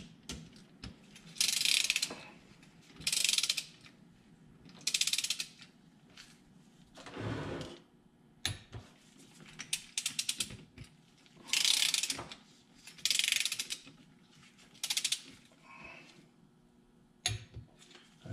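Ratchet of a torque wrench clicking in short bursts, one every second or two, as it is swung back and forth to tighten the cylinder head bolts of a Polaris 600 CFI two-stroke twin in stages to the service-manual torque.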